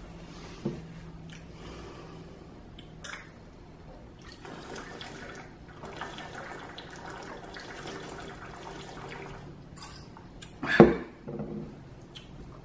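Close-miked eating sounds: soft, wet chewing and mouth noises with scattered small clicks. About eleven seconds in comes one louder, sharp sound, followed by a few smaller ones.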